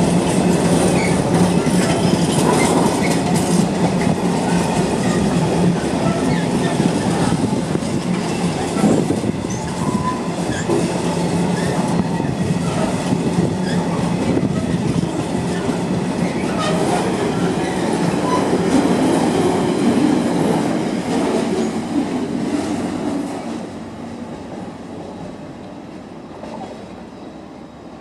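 Container freight wagons rolling past on the rails: a steady, dense rumble of wheels on track that falls away over the last few seconds as the last wagon goes by and recedes.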